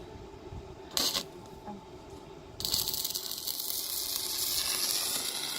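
A heap of small loose metal pieces, old keys, clattering and jingling together. There is a single clank about a second in, then a continuous dense jingle for about three seconds that cuts off sharply.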